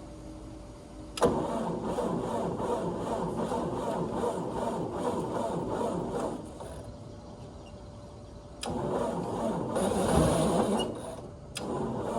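A 1955 Ford 640 tractor's four-cylinder engine being cranked over by its starter in two tries: the first begins suddenly about a second in and runs about five seconds with an even pulsing beat, and the second starts about two and a half seconds after the first stops.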